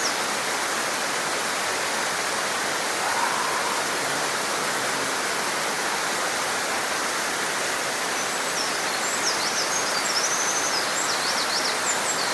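Steady rush of a small stream, with a Eurasian wren singing a fast, high, trilling song for about three seconds near the end.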